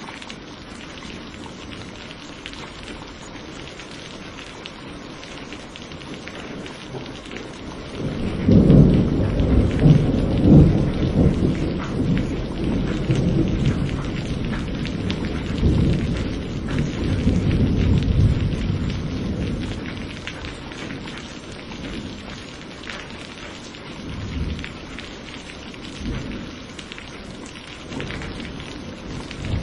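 Steady rain falling, with a long roll of thunder that breaks in about a third of the way through and rumbles on with several swells for about ten seconds, then fainter rumbles near the end.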